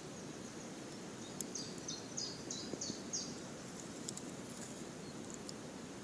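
A small bird sings a quick run of about five short high chirps in the first half, over a steady low outdoor rush. A few sharp crackles from the campfire are scattered through it.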